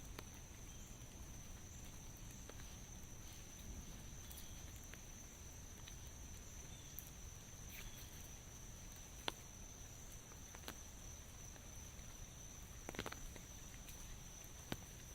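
Light rain falling steadily, with a few sharper drops ticking through it and a steady high-pitched tone running underneath.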